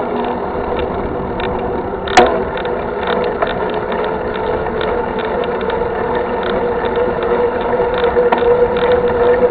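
Mountain bike riding over a rough trail: the rear hub's freewheel ratchet buzzing steadily as it coasts, with the frame and parts rattling, and a sharp knock about two seconds in.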